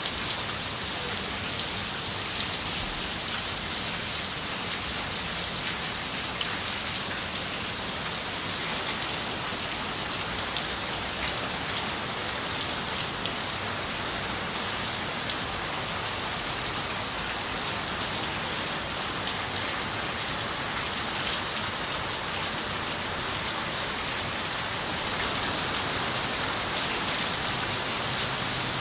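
Steady rain falling on a window, a constant hiss with scattered ticks of single drops; it grows slightly louder near the end.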